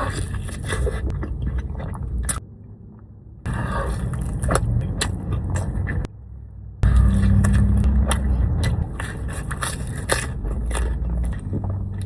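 Close-up eating sounds: food being bitten and chewed, with crunchy, crackly clicks. The sound comes in three separate stretches with sudden starts and stops.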